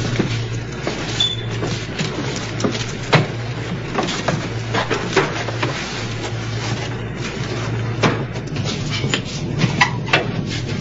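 Submarine interior machinery: a low hum that swells and fades every couple of seconds under a steady noise, with scattered clicks and metallic knocks.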